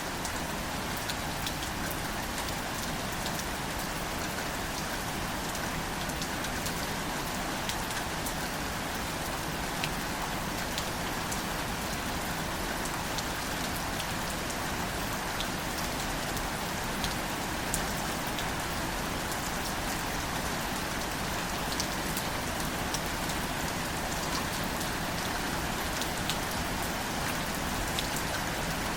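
Steady rain falling on plants, an even patter with many separate drops ticking through it.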